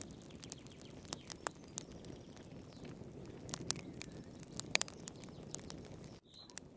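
Wood fire in a fireplace crackling, with irregular sharp pops and snaps over a low steady rush of the flames. The sound drops out for an instant near the end.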